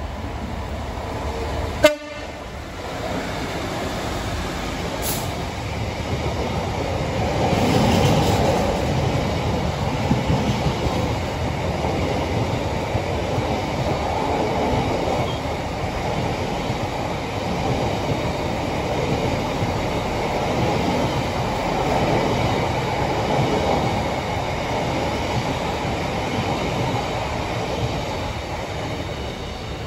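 Freight train of flat container wagons passing, a steady rumble of wheels and wagons on the rails, loudest about eight seconds in. A single sharp click just before two seconds in.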